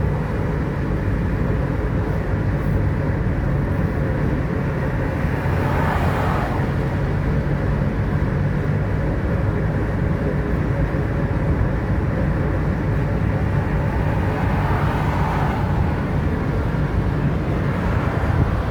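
Steady drone of a running vehicle engine under a continuous noisy rumble, with two brief swelling whooshes about six seconds in and again near fifteen seconds.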